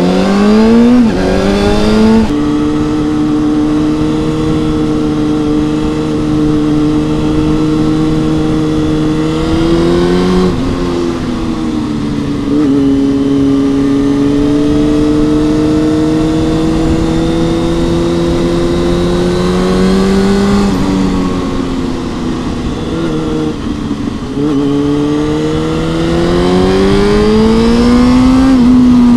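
Honda CB600F Hornet's inline-four engine through a Mivv X-cone aftermarket exhaust, pulling under load while riding: the revs climb, drop sharply at each upshift and climb again. There are quick shifts about one and two seconds in, long steady pulls in between, further shifts around ten, twenty and twenty-four seconds in, and a strong climb near the end.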